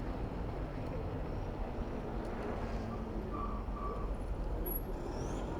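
City street traffic noise heard while riding a bicycle: a steady low rumble of road and wind, with two short high tones about three and a half seconds in.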